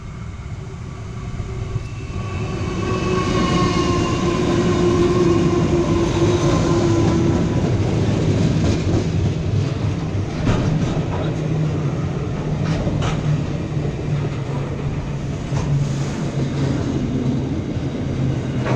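Two NR class and one 81 class diesel-electric freight locomotives passing slowly at the head of a long container train. Their engine drone grows loud and slides down in pitch as they go by, about four to seven seconds in. Then the container wagons roll past with a steady low rumble and repeated clicks of the wheels over the rail joints.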